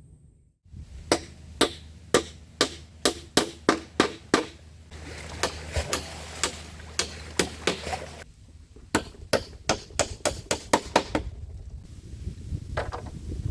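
Repeated sharp chopping strikes on wood, about two a second, with a run of lighter, quicker strikes in the middle, stopping near the end.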